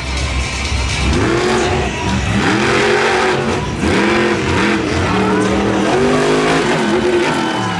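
Monster truck engine revving hard in repeated surges, its pitch climbing and falling again and again from about a second and a half in.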